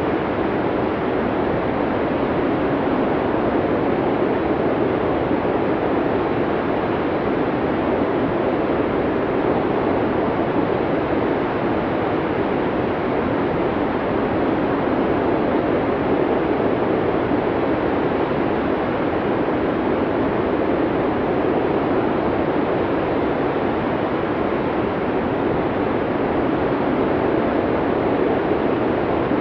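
Steady rushing noise of a snowstorm's wind, even and unchanging throughout, fuller in the low middle than in the highs.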